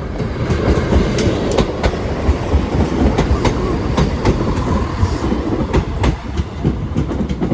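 A train passing close by over the level crossing: a loud, steady rumble with wheels clicking irregularly over rail joints.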